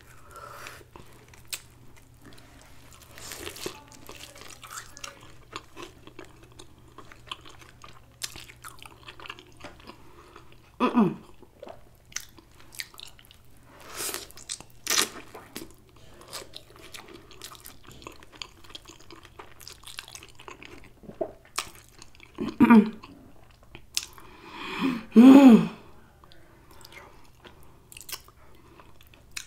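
Close-miked eating: a person biting and chewing a grilled cheese sandwich on toasted Texas toast dipped in tomato soup, with many small wet mouth clicks and a few louder crunchy bites. There are a few short hums.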